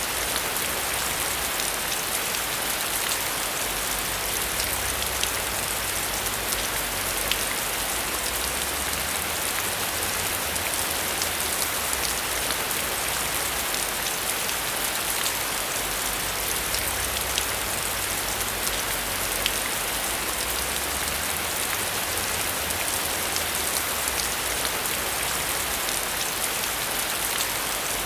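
Heavy rain falling steadily, a dense even hiss dotted with many sharp ticks of individual drops striking a hard surface.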